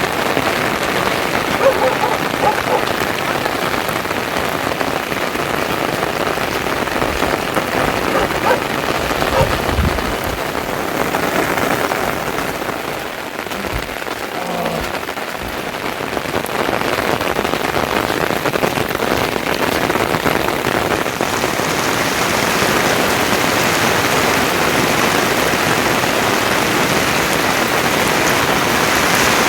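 Steady pattering water noise like rain, softening for a few seconds near the middle and turning brighter and more even in the last third.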